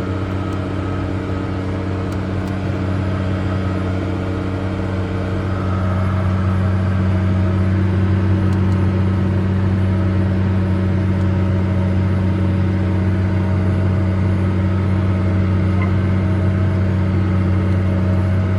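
Case 385 tractor's turbo diesel engine running steadily with a low drone, a little louder from about six seconds in.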